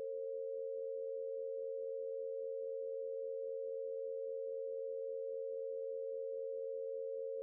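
Two pure sine tones held steadily together a little below and above 500 Hz: the root Bb at 460.8 Hz and the minor third above it in the Harmonics of Nature tuning scale.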